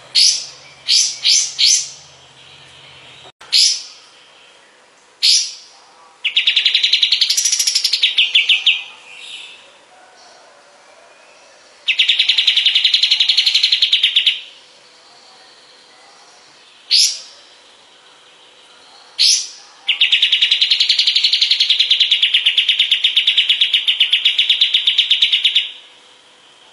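Kapas tembak songbird calling: sharp single chip notes scattered throughout, between three long, rapid rattling trills, the last lasting about six seconds.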